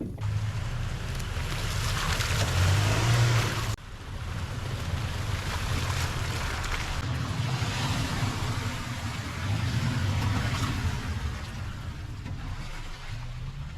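Toyota Tacoma pickup truck engine running as it drives over rough ground, with a steady hiss over it. The sound drops abruptly about four seconds in, then carries on.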